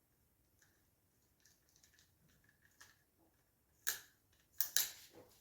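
Quiet handling of cleaning supplies: faint clicks and rustles, then three short, sharp bursts of noise about four seconds in.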